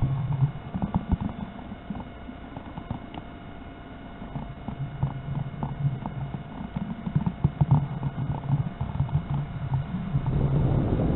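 Electric motor and propeller of an RC Corsair model plane droning in flight, fading in the middle and growing louder near the end as it comes back closer. Strong wind gusts buffet the microphone throughout.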